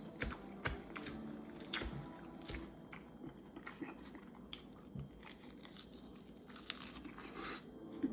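A person chewing and crunching mouthfuls of salad close to the microphone, with irregular small crunches and clicks.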